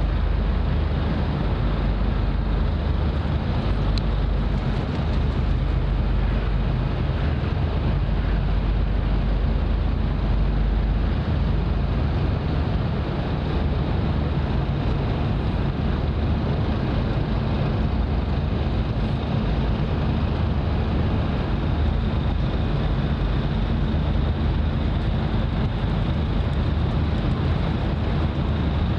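Steady wind buffeting the microphone outdoors by the water, a constant low rumble with a hiss above it.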